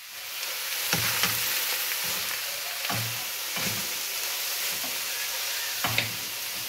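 Omena, chicken feet and meat sizzling steadily as they fry in a pan, with a wooden spoon stirring and knocking against the pan several times.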